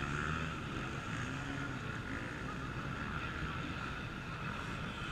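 Off-road race motorcycle engines running and revving on the course, their pitch rising and falling, with some wind noise on the microphone.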